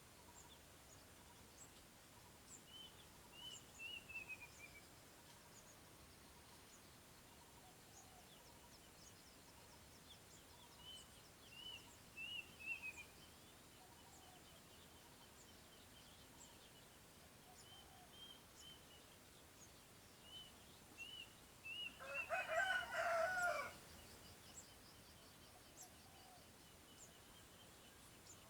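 Birds calling: short runs of high chirping notes that fall in pitch recur every few seconds. A rooster crows once near the end, the loudest sound.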